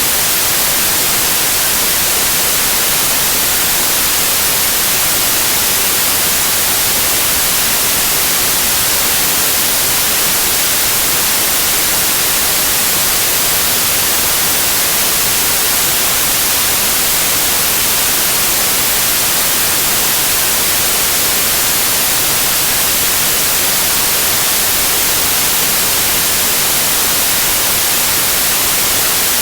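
Steady white noise in the manner of television static: an even, unbroken hiss, brightest in the high treble.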